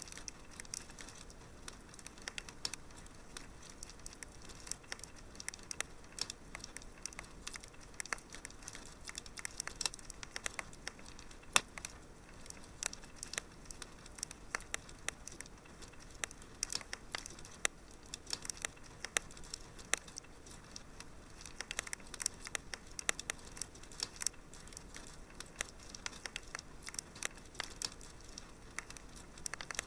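Wood fire in a fireplace crackling, with many sharp irregular pops and snaps over a faint steady hiss.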